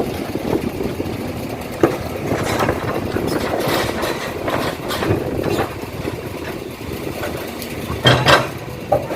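Heavy vehicle engines running steadily, with a few short knocks mixed in.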